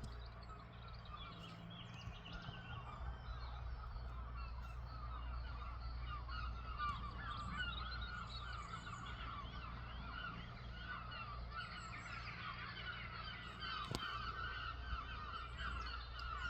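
A large flock of birds calling continuously, many short overlapping honking cries, over the low, steady hum of a tractor engine working in the background.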